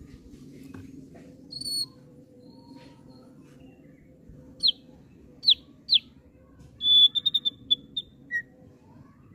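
Thick-billed heleia (opior paruh tebal) singing. One high note comes first, then three sharp falling whistles about half a second apart. Near the end a held whistle breaks into a quick run of short notes.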